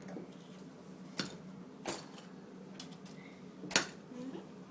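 Hard objects clinking and knocking as they are handled: three sharp clinks, the last the loudest, over a faint steady hum.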